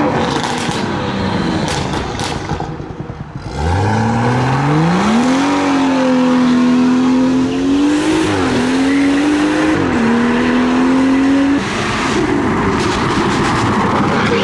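Modified cars accelerating away one after another, each engine note climbing steeply as it revs up. About four seconds in, one car's engine rises and holds a high steady note for several seconds, wavering twice, then drops away near the end.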